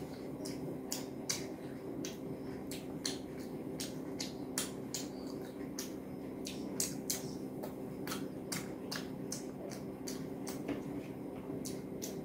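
Close-miked eating sounds: chewing with irregular wet mouth clicks and smacks, several a second, while rice and curry are mixed by hand. A steady low hum runs underneath.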